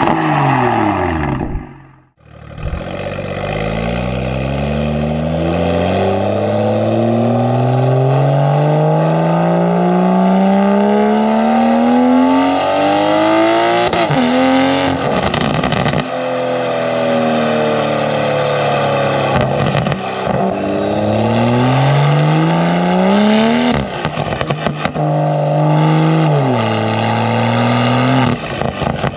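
BMW M340i's turbocharged 3.0-litre B58 straight-six, with free-flow downpipes and a valved catback exhaust, heard close at the tailpipes while accelerating hard through the gears. The pitch climbs steadily and then falls at each upshift, with short crackles at the shifts. The sound cuts out briefly about two seconds in.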